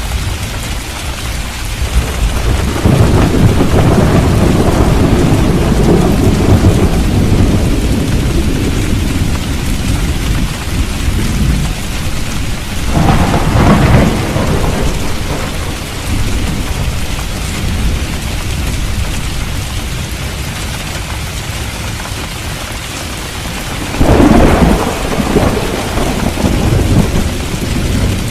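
Steady rain falling, with thunder: a long rolling rumble a few seconds in, then two sharper thunderclaps, one about halfway through and one near the end.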